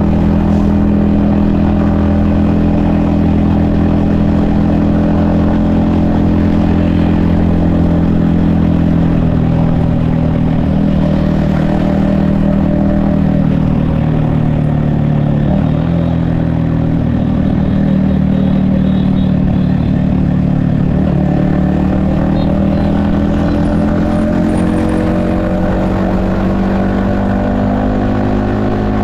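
Yamaha XSR155's 155 cc single-cylinder engine running under way, heard from the rider's helmet. Its note holds steady, drops briefly a couple of times past the middle, then climbs steadily near the end as the bike accelerates.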